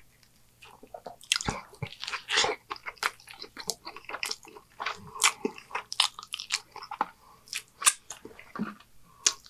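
Close-miked chewing of a mouthful of cheeseburger: irregular wet smacks and soft crunches from the mouth.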